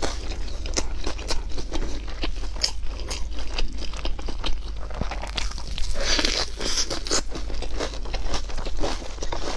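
Close-miked crunching bites and chewing of a crisp folded Chinese egg crepe (jianbing), a dense run of sharp crunches that thickens about six seconds in.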